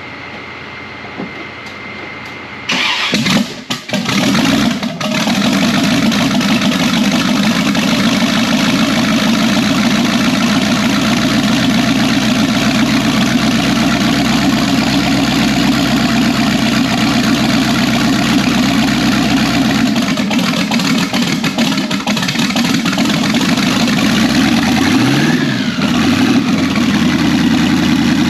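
Twin-turbo small-block 350 V8 with a blow-through carburetor, not run for a couple of days, cranking and firing up about three seconds in, then idling steadily. Near the end the throttle is blipped a few times, short revs rising and falling.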